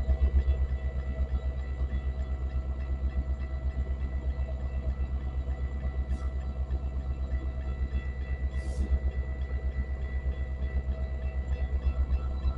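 Metra commuter train's diesel locomotive running steadily with a heavy pulsing rumble and a steady whine. Two short hisses of air come about six and nine seconds in.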